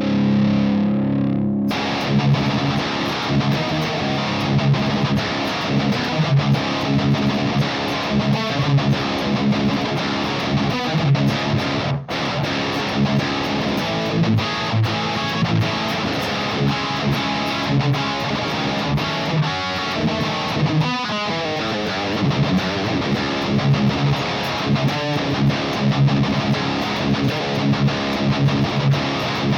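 Distorted electric guitar, an Ernie Ball Music Man Monarchy Majesty, played through a Mesa TC-100 tube amp's blue channel with a Lichtlaerm Amber Spyglass EQ/boost pedal in front, recorded through a 2x12 cabinet impulse response. A chord rings briefly before tight rhythmic metal riffing starts, and the sound cuts out suddenly for an instant about twelve seconds in.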